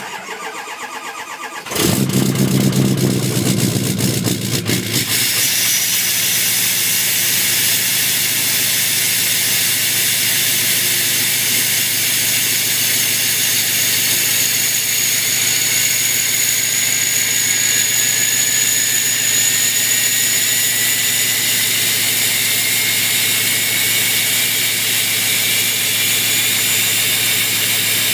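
A 2007 Ford F-350's 6.0 Powerstroke V8 turbodiesel cold-starting with no block heater: the starter cranks for under two seconds, then the engine catches loudly and settles into a steady idle through a straight-pipe exhaust. A high turbo whistle comes in about five seconds in, and a second, lower whistle slowly rises in pitch from the middle on.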